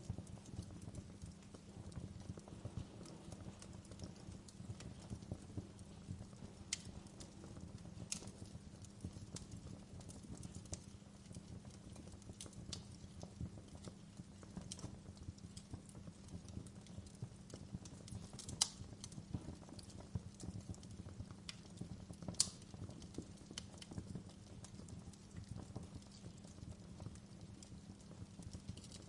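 Wood fire burning with a continuous low crackle and scattered sharper pops and snaps, two of them louder about two-thirds of the way through.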